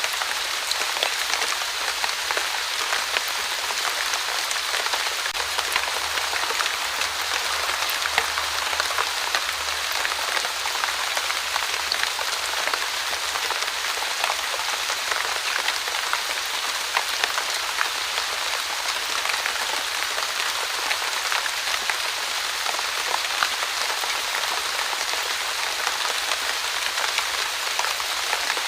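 Fine, steady drizzle: a continuous hiss of light rain with many small drops ticking on a surface.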